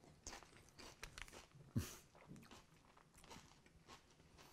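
Faint chewing of a mouthful of Fritos corn chips with chili and cheese: a run of soft, irregular crunches and mouth clicks, the loudest a little under two seconds in.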